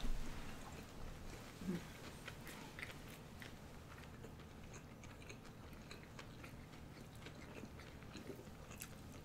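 Faint chewing and mouth sounds of people eating sushi rolls, with scattered small clicks and a soft thump right at the start.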